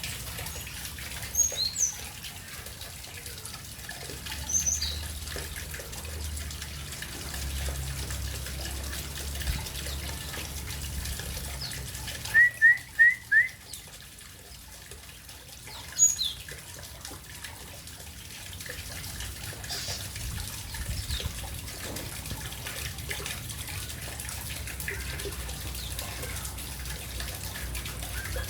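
Small birds chirping now and then while bathing, with a quick run of four loud chirps about halfway through, over a steady rush of running water.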